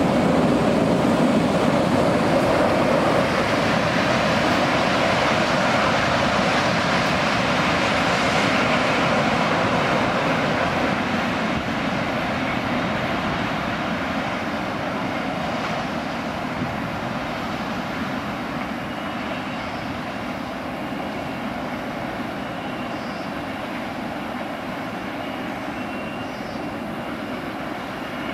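Freight train of fuel tank wagons running along the track, a steady rolling noise that slowly fades as it draws away.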